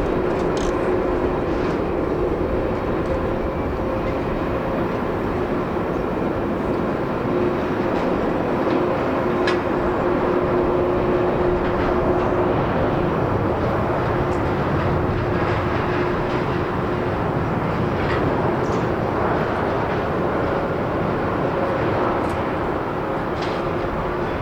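Jet airliner noise at an airport: a steady, even rush with a faint low hum, swelling slightly about halfway through.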